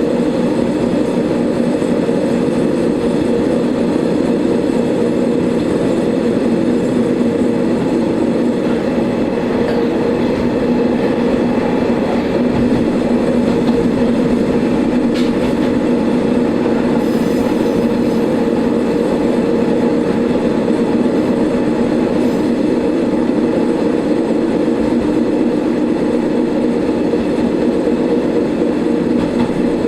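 Diesel railcar of the Shigaraki Kohgen Railway running along the line, heard from inside the car: a steady engine drone with wheel and rail noise, and one short click about halfway through.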